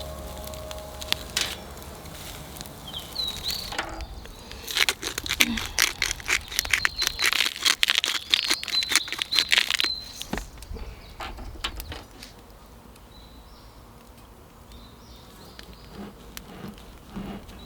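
Outdoor ambience with small birds chirping now and then, and a dense run of sharp clicks and light knocks in the middle. Quieter for the last few seconds.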